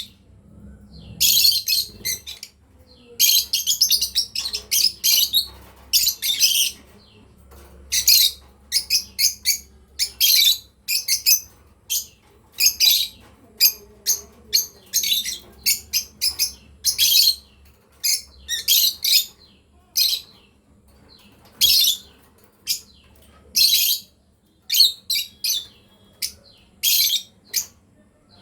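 Lovebirds chirping: short, high-pitched, shrill chirps in rapid irregular runs, broken by brief pauses.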